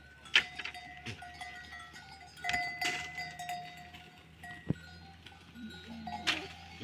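Metal bells clanking: sharp strikes about half a second, two and a half and six seconds in, each ringing on in clear, steady, sustained notes.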